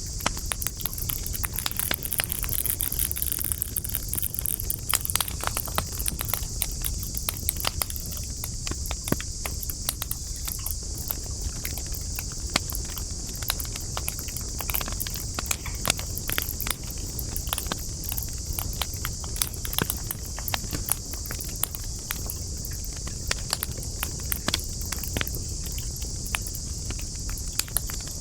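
Burning wood of a campfire crackling: frequent, irregular sharp pops and snaps over a low rumble and a steady high hiss.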